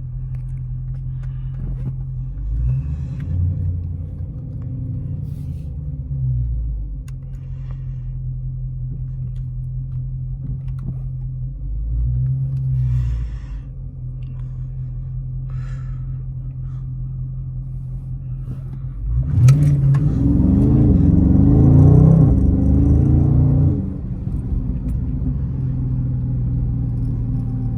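Dodge Charger Scat Pack's 6.4-litre HEMI V8 idling with a steady low drone. It swells briefly twice, then rises and falls under throttle for about four seconds past the middle, the loudest part.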